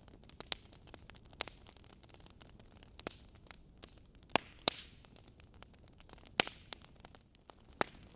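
Wood fire crackling in a fireplace: scattered sharp pops and snaps from burning logs over a soft steady hiss, with several louder pops in the second half.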